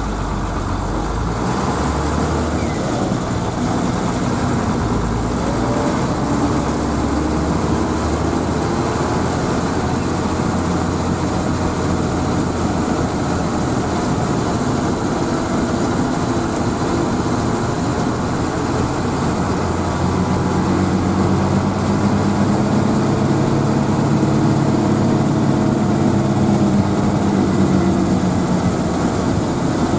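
Hino AK bus engine running with steady road noise, heard from inside the bus. About two-thirds of the way through, the engine's note becomes stronger for several seconds.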